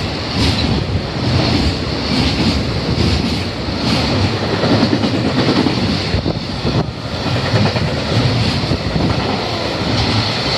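Freight train's container and tank wagons rolling past at speed close by: a loud, steady rumble and rush, with clacks as the wheels cross rail joints.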